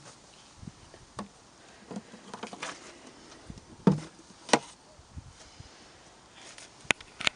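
Scattered light clicks and knocks at irregular intervals, with two louder knocks about four seconds in and two sharp clicks near the end.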